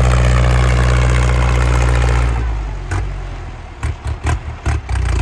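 Ford 6640 tractor's diesel engine running loudly through its exhaust while pushing soil. A little over two seconds in the steady engine note falls away, followed by a cluster of sharp knocks before the engine note comes back near the end.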